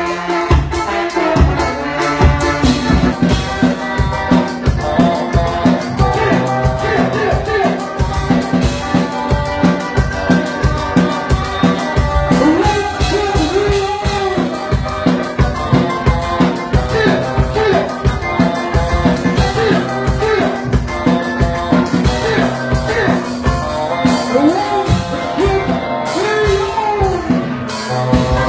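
Band playing music with a steady, fast drum beat and pitched instruments.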